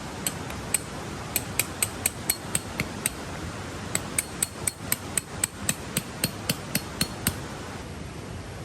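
Hammer blows striking metal, each with a short ringing note. They come in two runs of quick strikes, about four a second, with a pause of about a second between them.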